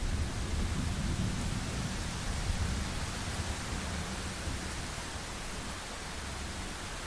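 Steady heavy rain hissing, with a low rumble of thunder that fades out over the first few seconds.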